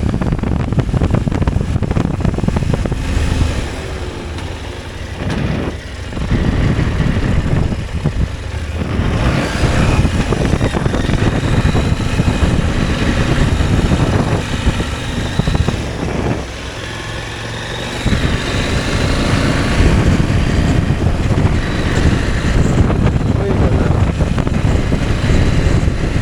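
Motorcycle riding along a trail, its engine running under wind noise on the microphone. The sound drops in level briefly three times.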